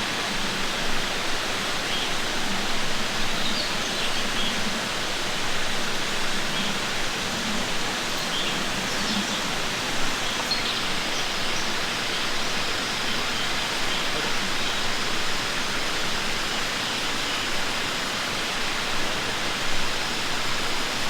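Steady rushing of running water, with faint short bird chirps scattered through it.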